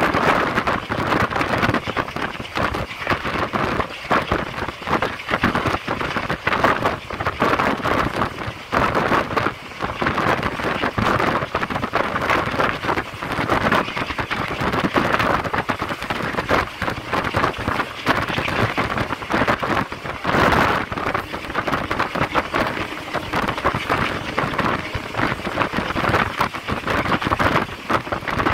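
Train running, heard from on board: a continuous rushing noise with dense, irregular rattling and clatter.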